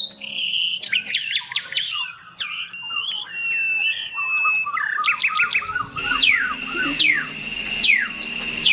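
Several birds singing, a mix of quick chirps, trills and whistled notes. From about six seconds in, a steady high tone runs under a sharply downward-sliding call repeated roughly once a second.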